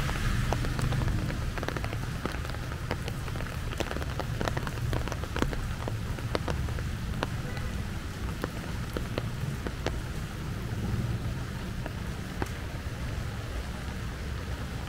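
Rain falling, with many separate drops ticking close by over a low steady rumble.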